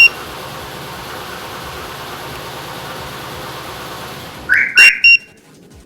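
VAZ-2114's four-cylinder engine idling under remote start, then shutting down about five seconds in. A few short electronic beeps and chirps from the car alarm system come as it stops, with a single beep at the start.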